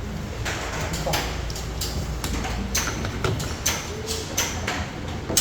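Irregular light clicks and knocks of objects being handled over a steady low background hum.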